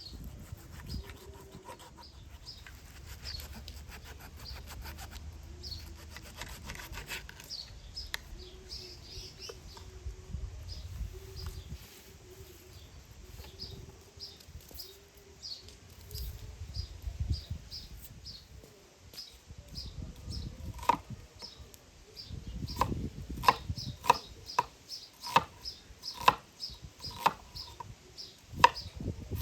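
Small birds chirping over rubbing and handling noise. Past the middle comes a steady run of sharp wooden knocks, roughly one a second.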